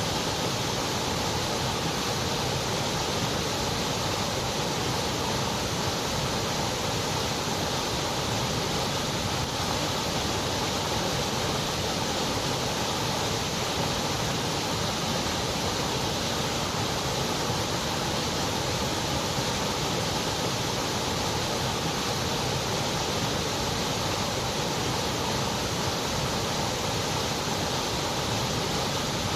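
Steady white noise: an even, unchanging hiss with no rhythm, tones or breaks.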